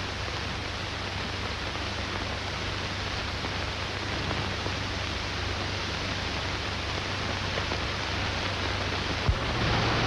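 Steady hiss and low hum from an old film soundtrack, with a single click near the end.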